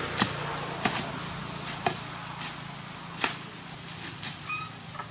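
A few sharp knocks at irregular intervals, four in all, over a steady low hum, with a brief short high squeak near the end.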